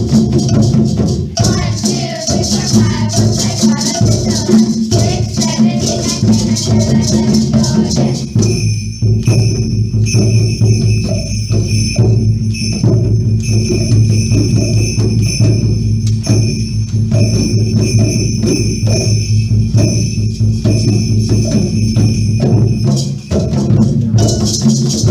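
Children's percussion ensemble playing: shakers and rattles over a steady low drum pattern. About a third of the way in the shaking gives way to a sustained ringing metallic tone above the drums, and the shakers come back near the end.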